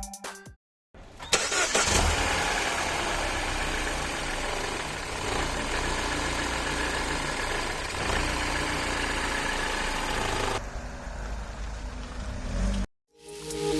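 Mini Cooper S 1.6-litre N18B16A four-cylinder engine starting about a second in, then idling steadily. Near the end the sound turns duller before cutting off abruptly.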